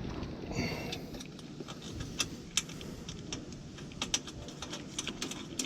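Small metal clicks and clinks of bolts and hardware being handled, irregular and scattered, over a steady hiss of rain.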